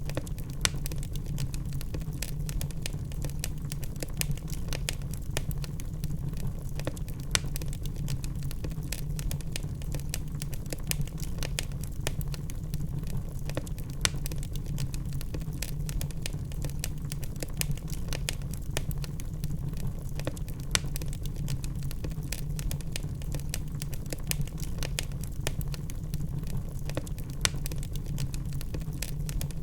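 Wood logs burning in a fireplace: dense, irregular crackling over a steady low rumble of the fire, with a sharper pop every several seconds.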